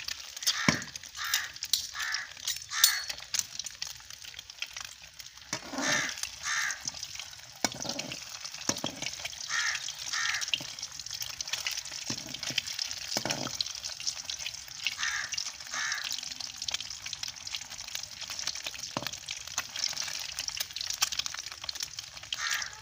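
Boiled eggs frying in hot oil in a wok, with a steady crackling sizzle and now and then a knock or scrape of the slotted spoon against the pan. A crow caws again and again in the background, mostly two calls at a time.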